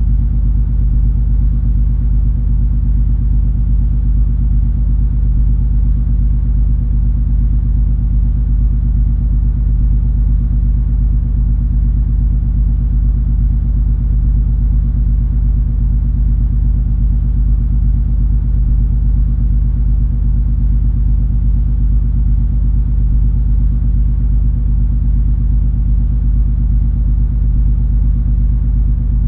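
Steady low drone of the MS Color Fantasy cruise ferry's engines and propulsion under way, heard aboard: a deep, even hum made of several steady low tones.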